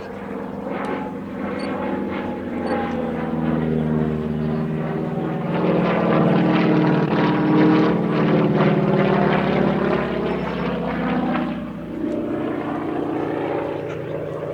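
North American T-6 'Super Six' flying by, its geared Pratt & Whitney R-1340 radial engine and three-blade propeller droning, growing louder to a peak midway and easing off near the end.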